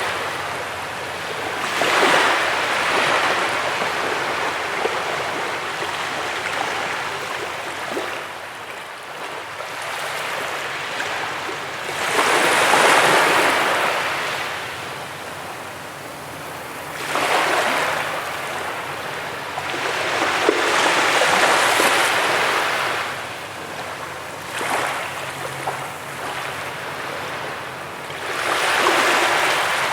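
Ocean surf breaking on a beach: waves crash and wash in every few seconds, each swelling to a loud rush and then fading back.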